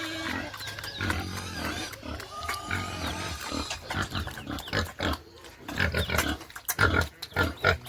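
Domestic pigs grunting in their pen, with a few short high squeals in the first few seconds and many sharp knocks and clicks. The grunting gets louder and choppier near the end.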